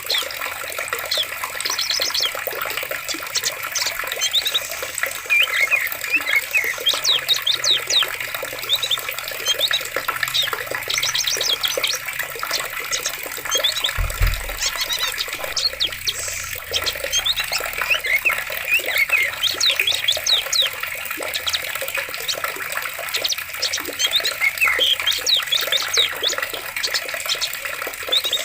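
Steady rushing of flowing water with many birds chirping over it, short quick calls, and a brief low thump about halfway through.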